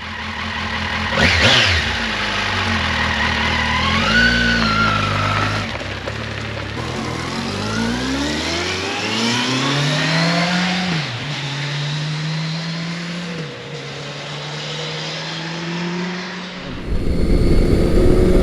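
Kawasaki Versys 1000 LT's inline-four engine and exhaust: two quick throttle blips, then a long pull with the pitch climbing steadily, dropping at two gear changes and settling to a steady run. A louder low rush joins near the end.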